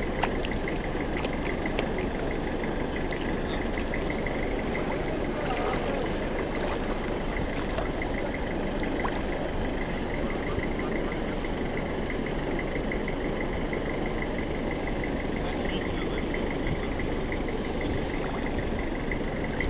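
A vehicle engine idling steadily, with a fast, even ticking over it.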